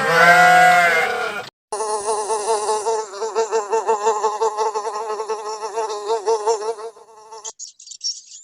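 A flying insect's buzz, steady with a wavering pitch, for about six seconds after a brief gap. A voice-like call trails off at the start, and high chirps begin near the end.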